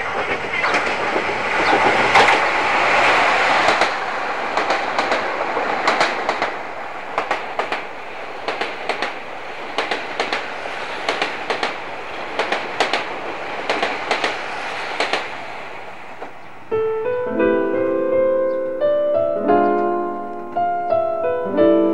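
Limited-express diesel train passing close by at speed: a steady rush of running noise with wheels clacking over the rail joints in quick pairs, dying away as it goes. About three-quarters of the way through, soft piano music comes in.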